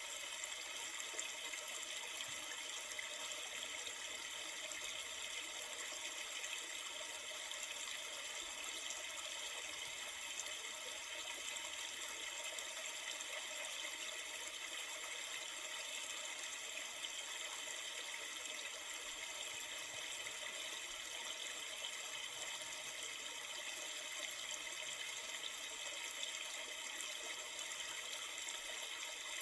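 Steady rushing of a river, even flowing water noise with no breaks.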